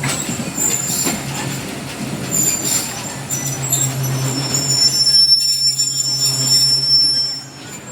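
Dhalarchar Express train running on the rails, with a high, steady wheel squeal over a low drone and a few sharp clicks from the wheels. The sound drops off suddenly near the end.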